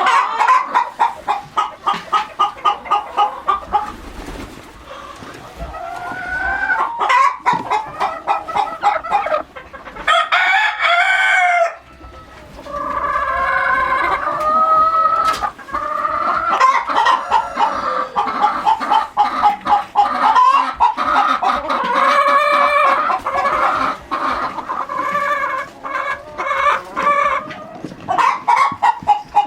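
A flock of chickens clucking and calling. There are fast runs of clucks, about four or five a second, at the start and again near the end, with longer drawn-out squawking calls in between.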